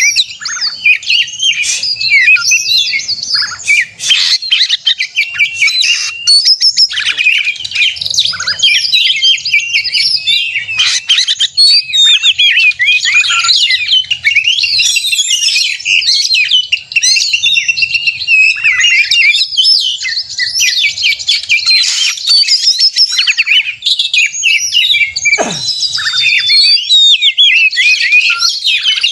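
Oriental magpie-robin (kacer) singing its fast, aggressive 'narung' challenge song: a loud, dense, unbroken stream of rapid, varied chirps and whistles, the kind of song used to provoke other magpie-robins into singing. One quick falling sweep cuts through about 25 seconds in.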